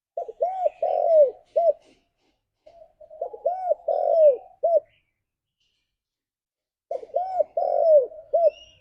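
Spotted dove cooing: three phrases, each a run of several rounded coo notes lasting about one and a half to two seconds, the third coming after a longer pause.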